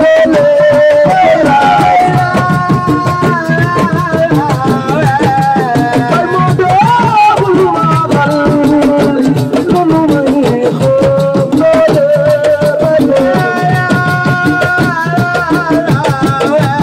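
Assiko band music: a voice singing a melody over fast, dense drum and percussion beats.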